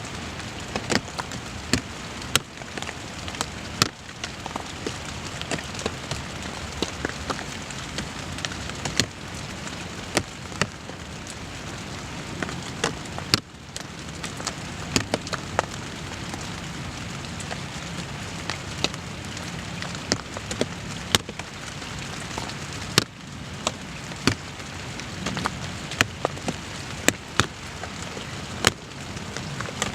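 Steady rain: an even hiss broken by many sharp, irregular ticks of individual raindrops striking.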